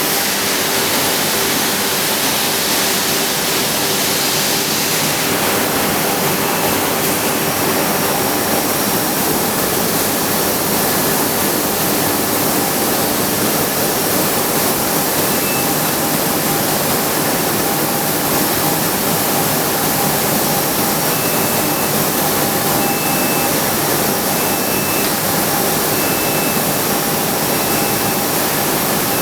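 Steady, loud rushing noise of a running carousel rotational moulding machine. Faint short high tones repeat in the last third.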